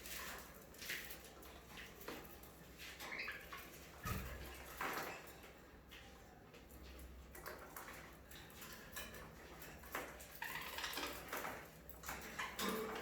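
Budgerigars making faint, brief chirps, with scattered light clicks and taps.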